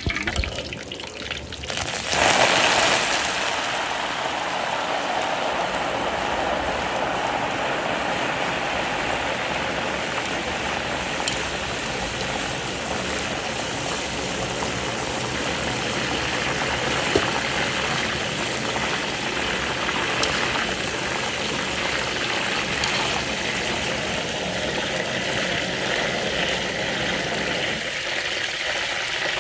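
Water running steadily from a tap in a gush, starting abruptly about two seconds in.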